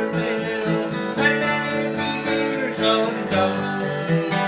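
Acoustic guitar strumming and picking an instrumental passage, with no singing.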